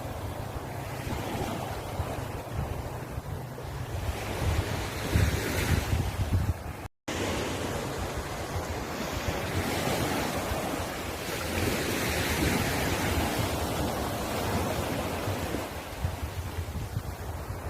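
East Sea surf washing onto the shore in slow surges, with low wind rumble on the microphone. The sound drops out completely for a split second about seven seconds in, then carries on.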